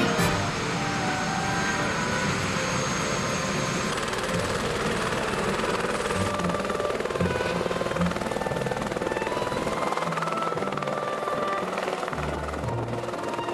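Tour helicopter's turbine engine and rotor running steadily on the ground.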